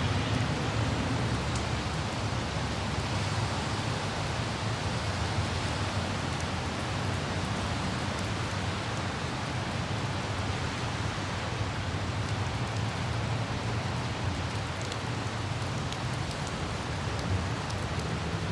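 Steady light rain with scattered droplet ticks, over the low, even rumble of a car driving on a wet road.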